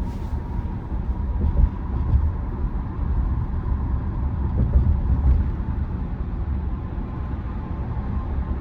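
Road and tyre rumble of a Tesla Model Y driving, heard from inside the cabin: a steady low rumble with a faint, steady high whine above it.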